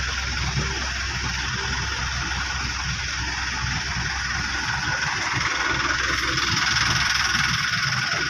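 A vehicle engine idling steadily under a constant high hiss, which gets a little louder near the end.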